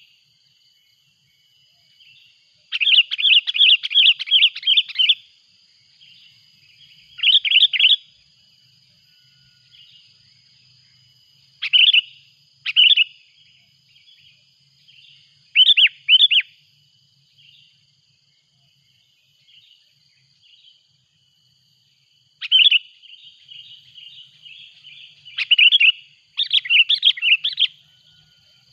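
Sooty-headed bulbul (kutilang) calling noisily: loud runs of rapid chirping notes alternating with short single and double calls, over a faint steady high tone.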